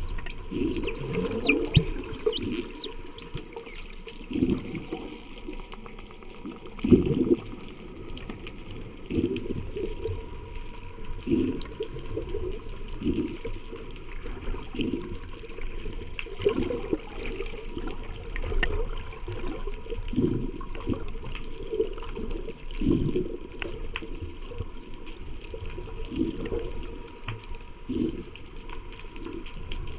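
Underwater recording of Indo-Pacific bottlenose dolphins whistling: a quick run of about ten high whistles, each sweeping downward, in the first few seconds. Repeated low whooshes of water and bubbles run throughout.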